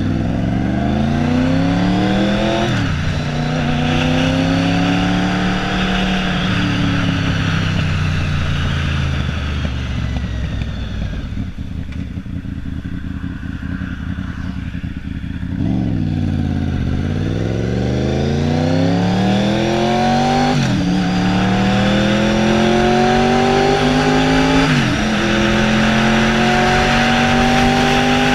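Honda VFR 750F's 748 cc V4 engine, running without a muffler, pulling away and accelerating through the gears, its pitch climbing and dropping sharply at each upshift. Midway the throttle is closed and the engine falls quieter and lower for several seconds, then it picks up again and accelerates through two more upshifts.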